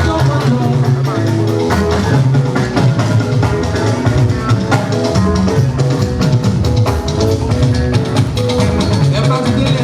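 Loud band music with a drum kit keeping a steady beat under a moving bass line and guitar.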